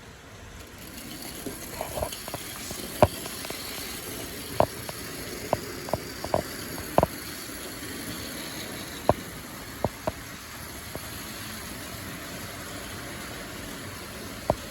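Miniville clockwork toy locomotive, a Triang-Hornby spring-wound mechanism, running on HO/OO track: a steady whirr that grows louder over the first two seconds, with sharp clicks at irregular intervals.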